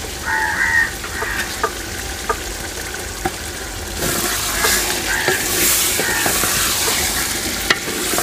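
Raw chicken pieces sizzling in hot oil and masala in a metal pot, with a wooden spoon scraping and knocking against the pot. The sizzle grows louder about halfway through as the stirring starts. A crow caws briefly near the start.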